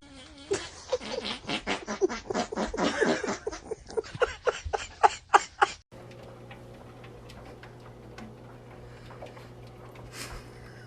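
An animal's rapid run of short pitched calls, coming faster and rising in pitch toward the end, cut off sharply after about six seconds. A faint steady low hum with a few light clicks follows.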